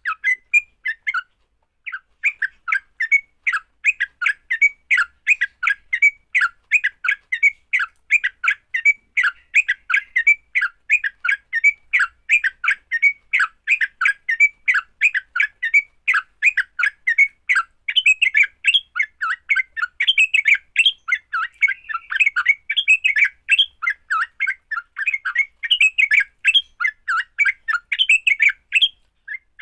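Yellow-vented bulbuls (trucuk) giving a rapid, continuous run of harsh chirping calls, several a second: the bird's aggressive 'fighting' call. There is a short break about a second and a half in.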